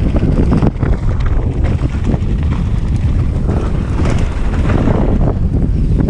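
Loud wind noise buffeting the microphone, with scattered knocks and rattles throughout.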